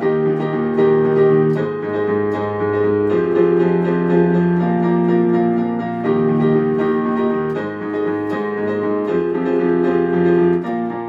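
Piano playing an instrumental interlude of held chords, changing every couple of seconds, with no singing.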